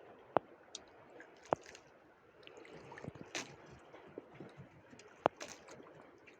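Sea water lapping and gurgling against the hull of a small fishing boat, with three sharp clicks or knocks and a couple of brief splashy hisses.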